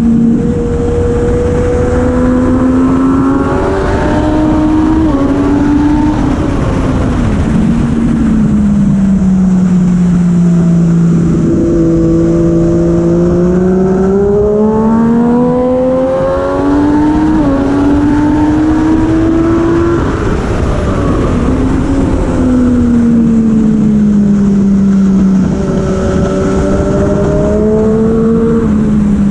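Racing motorcycle engine at full race pace, its pitch climbing under acceleration, jumping at gear changes and falling away into corners, over a steady rush of wind and road noise.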